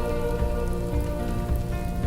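Slowed-down piano music holding sustained chords, with a steady crackling fireplace and snowstorm ambience layered over it.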